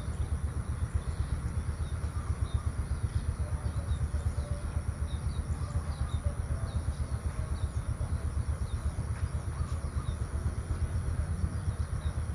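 Outdoor ambience of small birds chirping repeatedly over a loud, steady low rumble with a high, even hiss.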